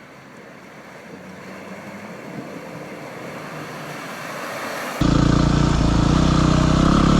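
A quieter hiss grows steadily louder for about five seconds. Then the Yamaha WR250R's single-cylinder four-stroke engine cuts in suddenly, running loud and steady close up.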